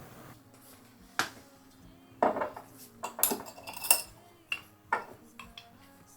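Kitchenware being handled: a run of sharp clinks and knocks of dishes and utensils, about eight in all, a few of them ringing briefly.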